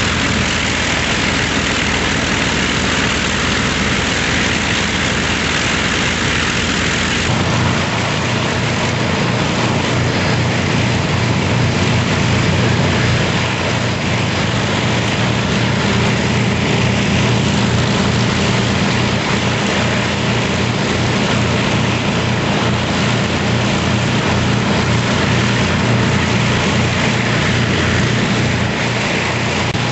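Avro Lancaster's four Rolls-Royce Merlin V12 engines running on the ground with propellers turning, a loud, steady pulsing drone. About seven seconds in the engine note shifts, with a stronger low throb.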